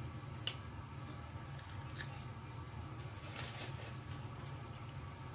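Eating sounds from a fried chicken sandwich: a couple of short wet smacks and a brief crunchy rustle about three and a half seconds in, over a steady low hum.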